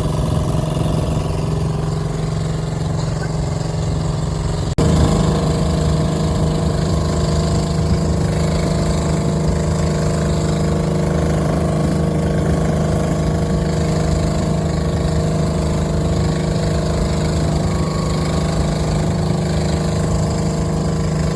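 A boat's engine running at a steady pitch. It breaks off sharply for an instant about five seconds in and comes back slightly louder.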